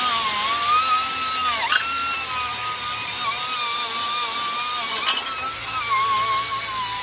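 Angle grinder running steadily as it cleans rust off the hub mounting surface, a high whine over a strong hiss. The pitch dips briefly twice as the tool is pressed into the metal.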